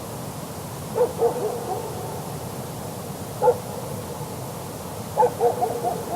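A dog barking far off, heard across miles of open mountain: a quick run of barks about a second in, a single bark in the middle, and another run of barks near the end, each trailing away over a steady hiss.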